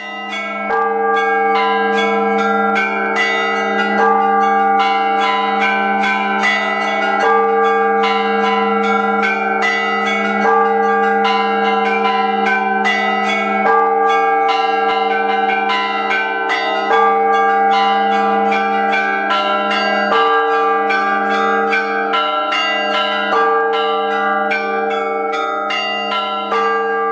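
Church bells pealing, many quick strikes over the deep, steady ring of a large bell.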